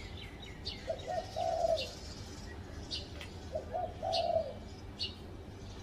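Spotted dove cooing: two phrases about three seconds apart, each two short coos followed by a longer, drawn-out coo. Other birds chirp briefly and high-pitched in between.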